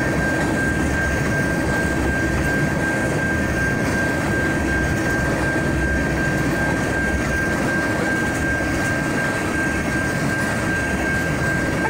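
Slow freight train of tank cars rolling past, a steady rumble and rattle of wheels on rail over a steady high-pitched tone.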